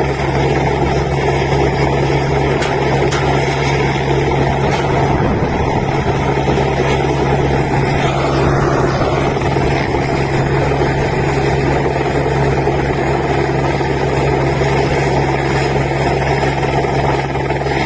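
Helicopter running steadily close by, its rotor blades chopping rapidly over a constant engine drone.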